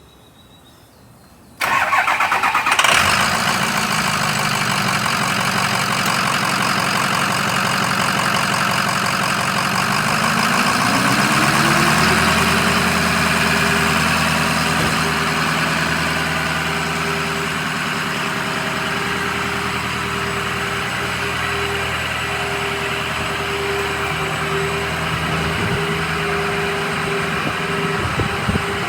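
Ford F-550's 6.0-litre V8 diesel engine cranked by the starter for about a second, then catching and settling into a steady idle. About ten seconds in, a whine rises in pitch and then holds steady over the idle.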